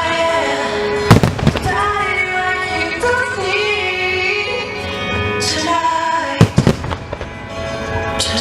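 Fireworks shells bursting in two clusters of loud bangs, one about a second in and one about six and a half seconds in, over steady music.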